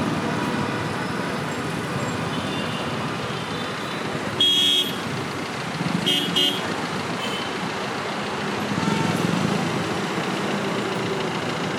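Road traffic running steadily, with a vehicle horn honking once for about half a second, then two short toots about two seconds later.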